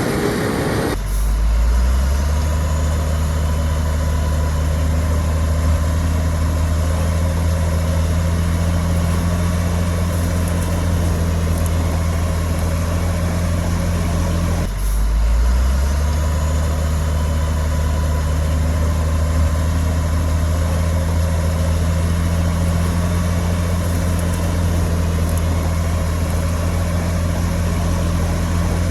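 Heavy diesel engine of earthmoving machinery running steadily at a constant low pitch, with sudden breaks about a second in and about halfway through.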